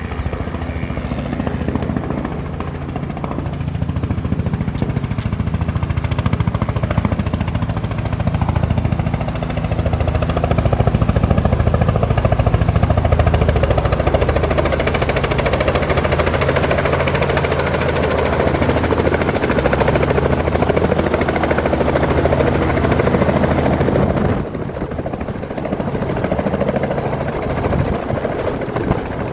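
Helicopter running: a steady low rotor and engine throb under a broad whooshing noise that grows louder through the middle and dips for a moment near the end.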